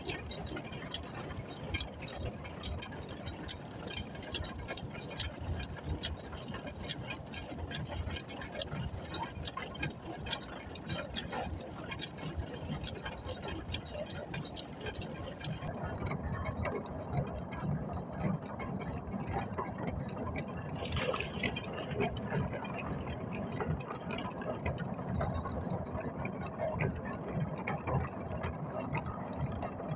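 Truck diesel engine running steadily, with a regular tick about twice a second. About halfway through the sound turns lower and heavier.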